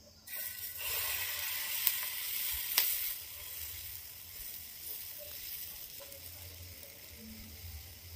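Besan chilla (chickpea-flour batter) frying in a hot pan: a sudden loud sizzle that settles into a quieter, steady sizzle after about three seconds. Two sharp clicks sound in the first three seconds.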